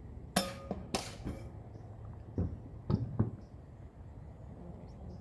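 A handful of sharp knocks and clatters, about six in three seconds, the first with a brief ringing tone, over a low steady hum.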